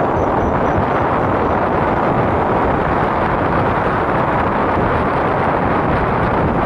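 Small river boat under way, its motor running steadily and loudly, with wind rushing over the microphone.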